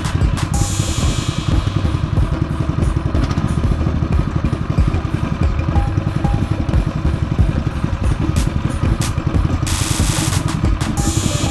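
Predator 212cc single-cylinder engine running on a go-kart buggy as it is driven, a steady low rumble with rapid firing pulses. A rushing noise rises for about a second near the end.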